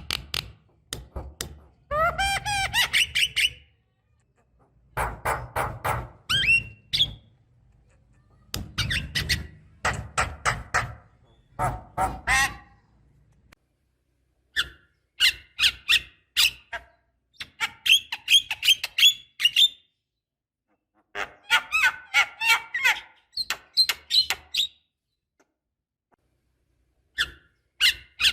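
Javan myna (jalak kebo) singing in phrases of rapid clicks, harsh squawks and chattering notes with a few rising whistles. The phrases are broken by short pauses.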